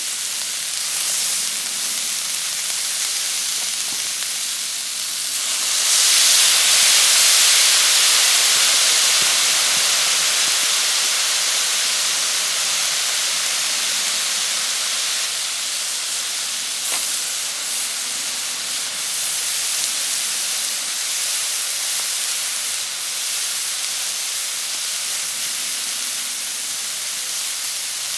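Steady hiss of rain falling, growing heavier about six seconds in and then slowly easing.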